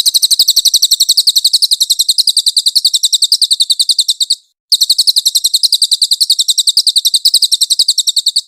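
Cililin songbird singing its rapid 'nembak' trill: a loud, fast, even run of high, sharp notes, about ten a second. It breaks off for a moment about halfway, then resumes and stops abruptly at the end.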